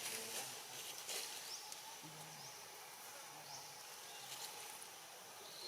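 Faint outdoor background: a steady high hiss with a few short, faint chirps and low murmurs.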